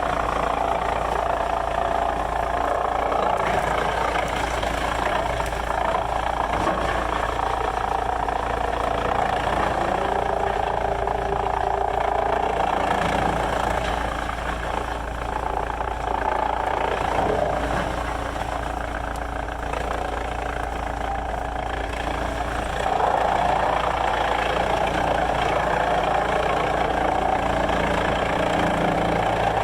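Sawmill machinery running steadily with an engine-like drone. It eases slightly in the middle, then grows louder again a little over two-thirds of the way through.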